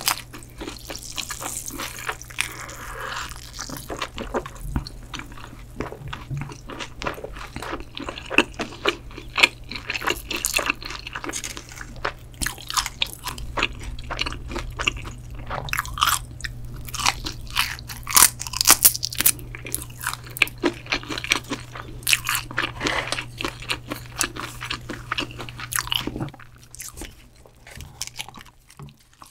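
Close-miked eating sounds: a person chewing and crunching mouthfuls of shrimp pizza, with many irregular sharp crunches. A low steady hum runs underneath and stops near the end.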